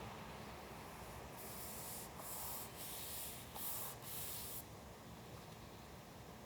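Paper being worked by hand: about five short, scratchy strokes in a row, starting about a second in and stopping past the middle.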